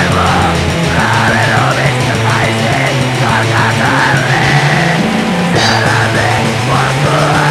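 A black metal song playing loud and dense: distorted guitars and drums with harsh, shrieked vocals.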